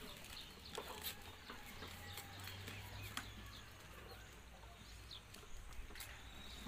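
Faint outdoor ambience with scattered short bird chirps and occasional light clicks.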